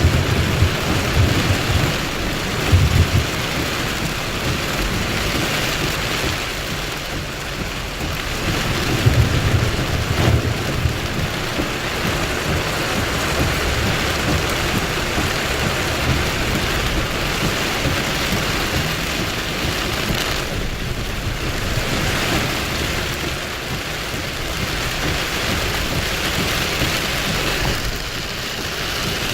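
Heavy rain falling steadily, with thunder rumbling low at the start and again about ten seconds in.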